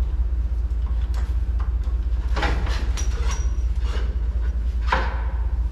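Metal scraping and clanking, with a short high squeak, as a truck-mounted salt spreader is jacked and shifted for removal, over a steady low rumble.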